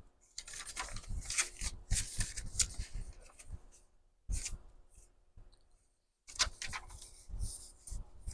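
Sheets of paper rustling and being shuffled as pages are handled and moved about, in crackly spells with a pause of about two seconds in the middle.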